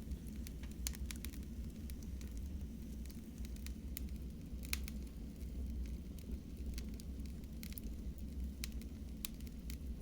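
Wood fire burning in a fireplace: a steady low rumble of flames with scattered sharp crackles and pops, a few of them in quick clusters.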